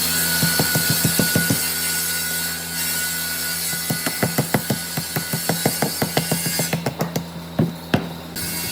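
A hand tool worked back and forth on wood in quick, even strokes, about four or five a second, in two runs with a pause between them, over a steady low hum.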